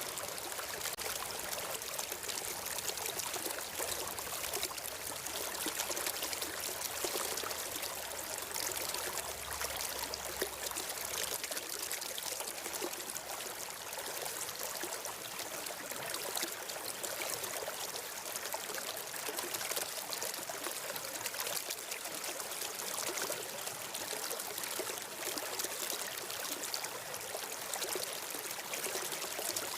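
A stream flowing and trickling steadily, an even rushing wash of water with no breaks.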